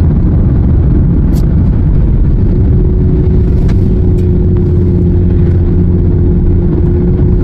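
Steady low rumble of a car driving, heard from inside the cabin, with a steady hum joining in about two and a half seconds in.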